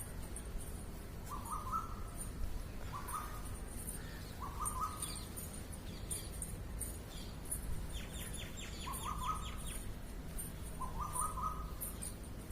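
Birds calling and chirping: a short, slightly rising call repeats every second or two, with high thin chirps around it and a quick rattling trill about eight seconds in.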